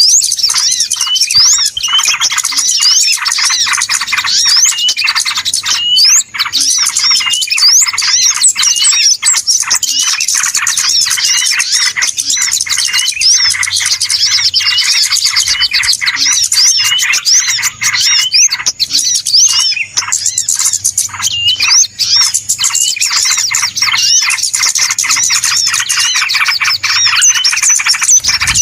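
A busy chorus of many small birds chirping and calling over one another without a break, many quick high squeaky notes overlapping: a noisy bird-lure recording.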